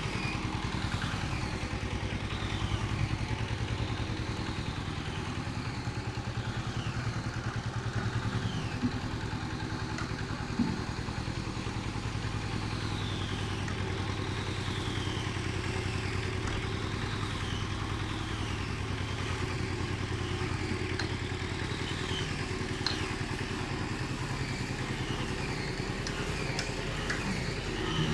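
A small engine running steadily at an even speed, with repeated short high chirps that fall in pitch.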